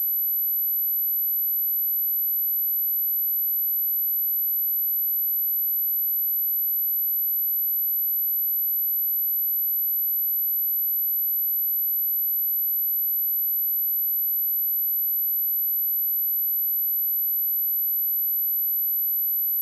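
A steady, high-pitched pure sine-wave test tone at 11935 Hz, held at one pitch and level without a break.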